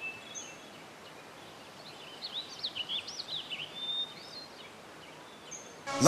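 Small birds chirping over a faint outdoor hiss, with a quick run of short chirps in the middle.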